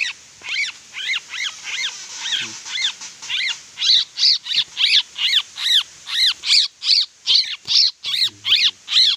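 A bird call repeated over and over: short high notes that rise and fall, about three a second, getting louder about four seconds in.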